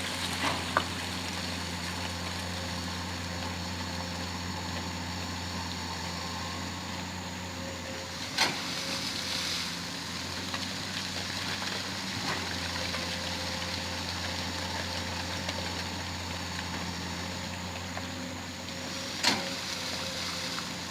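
Excavator's diesel engine running steadily, with a few sharp metallic clanks, the loudest near the middle and near the end.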